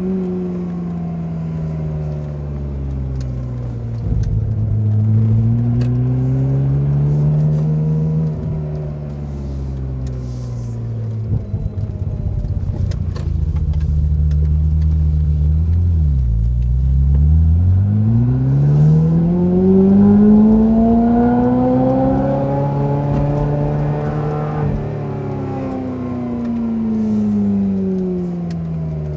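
Ferrari F355's 3.5-litre V8 through a Kreissieg aftermarket exhaust, under way: the revs rise and fall several times. A sharp drop and quick climb comes about sixteen seconds in, a long rise peaks around twenty seconds, and the revs fall off toward the end.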